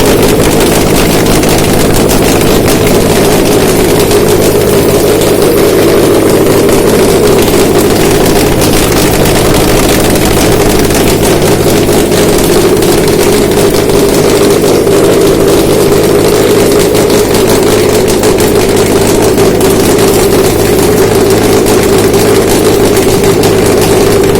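Subaru EJ253 2.5-litre flat-four boxer engine idling steadily on a test stand, a used engine being run to check its condition. The sound is loud and even, with no revving.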